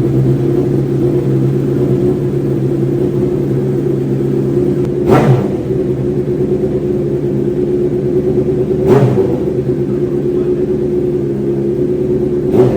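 Honda CBR motorcycle engine idling steadily, with short throttle blips about five seconds in, about nine seconds in, and again near the end.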